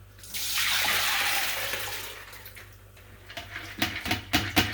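Water running hard from a tap for about two seconds, starting suddenly and then tailing off, followed near the end by a quick run of sharp knocks and clatters.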